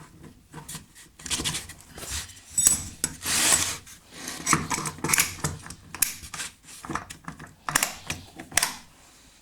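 Round hand file rasping on a soft workpiece in a series of uneven strokes with short pauses between them.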